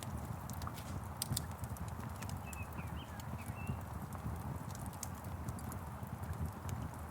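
Wood fire crackling, with scattered sharp pops over a low steady rumble. A few brief bird chirps come in about two and a half seconds in.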